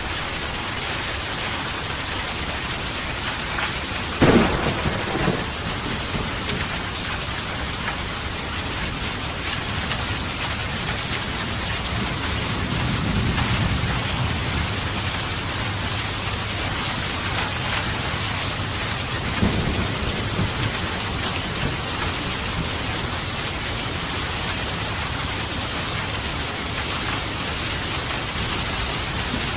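Steady rain falling through a thunderstorm. A sharp thunderclap about four seconds in, a low rolling rumble of thunder around the middle, and a smaller crack a little before two-thirds of the way through.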